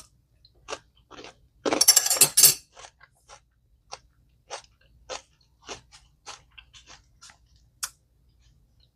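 A person chewing a mouthful of chicken salad: a loud burst of crunching about two seconds in, then a string of small separate chewing clicks.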